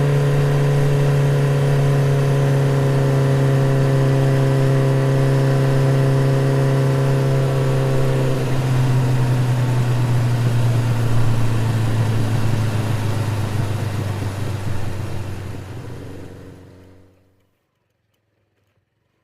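BMW GS adventure motorcycle engine running at steady revs, a constant drone that sags slightly in pitch past the halfway point, then dies away to silence about 17 seconds in.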